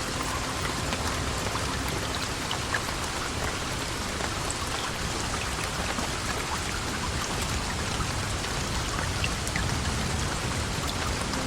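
Steady heavy rain: an even hiss with scattered faint ticks of drops.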